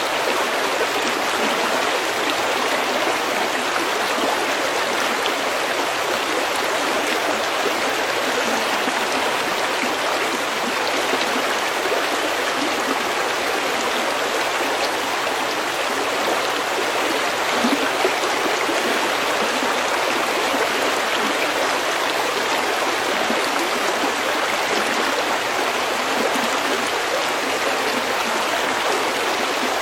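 A stream running steadily over pebbles: an even, unbroken rush of flowing water.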